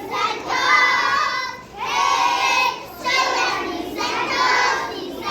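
A group of young children singing a song together, in phrases about a second long with short breaks between them.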